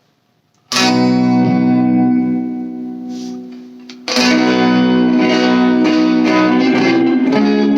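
Electric guitar through an all-tube amp: a chord struck about a second in and left to ring and fade, then another chord about four seconds in followed by more playing.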